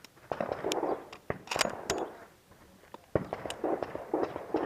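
Several sharp pistol-shot cracks from elsewhere on the range, about a second apart, over muffled talk.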